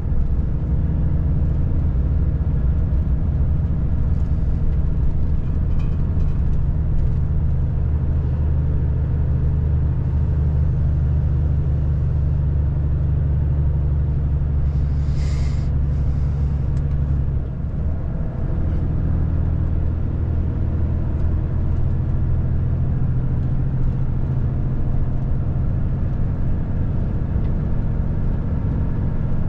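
Volvo FH540 truck's 13-litre six-cylinder diesel engine running steadily. About halfway through there is a short hiss, and soon after the engine note dips and settles at a lower pitch.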